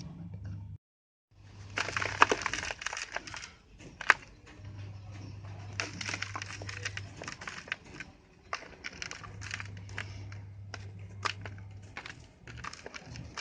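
Hardened sand-cement or dirt shapes being crushed and crumbling: a dense run of crunchy crackles with sharp snaps. There is a brief cut-out to silence about a second in.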